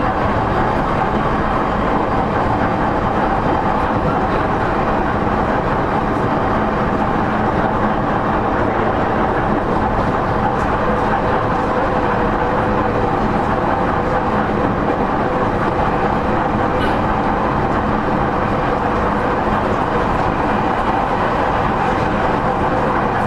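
Running sound inside a JR East E231-0 series motor car at speed: a steady, loud rumble of wheels on rail with faint steady motor tones, and another tone joining about ten seconds in.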